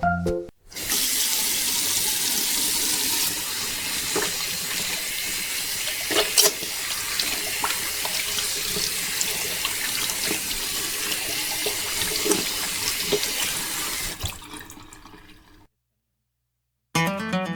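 Steady rush of running water, with a few small splashes, fading out about three quarters of the way through.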